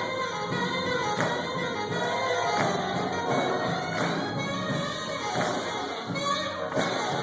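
Gospel music sung by a choir with instrumental accompaniment and a steady beat, with a percussive hit about every second and a half.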